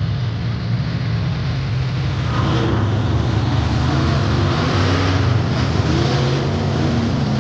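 Monster truck engine running, its pitch rising and falling as the driver revs it.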